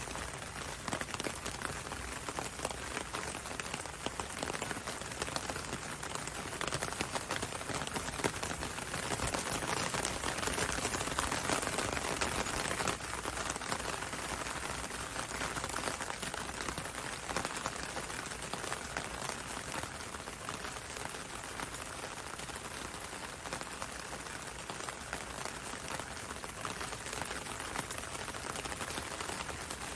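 Steady gentle rain falling on a window and on a road, a continuous hiss dotted with many small drop ticks. It grows slightly heavier about ten seconds in, then eases back.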